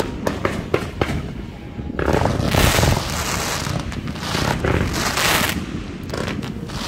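Aerial fireworks going off: a run of sharp separate pops in the first second, then dense crackling salvos about two and five seconds in.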